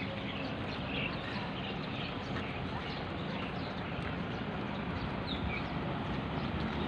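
Small birds chirping faintly now and then over steady outdoor background noise.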